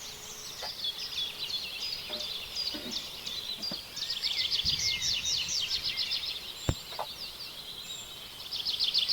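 Small birds chirping in quick runs of high, falling notes, in two spells. There is one sharp click about two-thirds of the way in.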